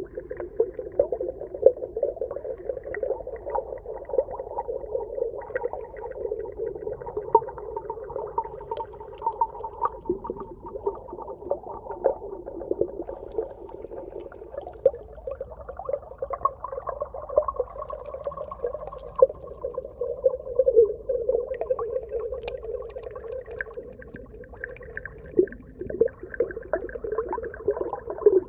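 Underwater ambience: a steady, muffled crackling and popping, with many sharp clicks scattered throughout.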